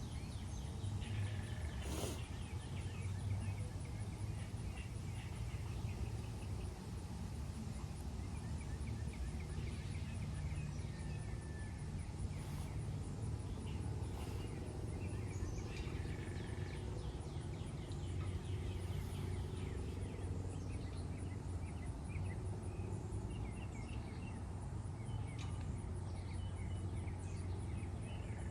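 Wild birds chirping and trilling, many short calls, over a steady low rumble, with one sharp click about two seconds in.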